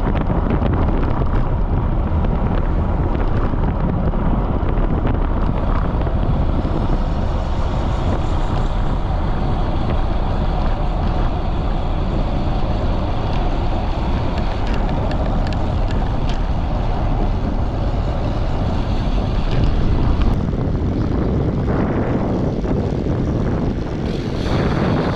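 Strong wind buffeting the microphone of a camera on a bicycle ridden at speed, a steady loud rumble that eases somewhat a few seconds before the end.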